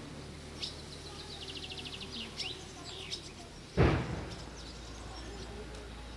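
Small birds chirping outdoors, with a quick trill about a second and a half in. A short thump about four seconds in, followed by a steady low hum.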